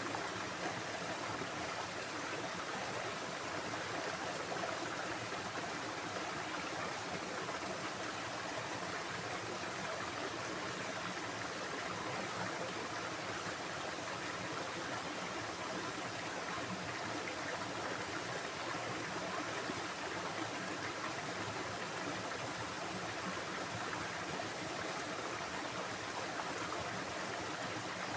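Water running in a stream, a steady, unbroken rushing.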